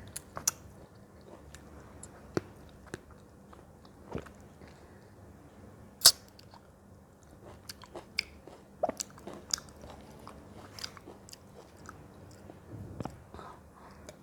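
A person chewing and biting into fruit: irregular crisp clicks and crunches, with the sharpest bite about six seconds in.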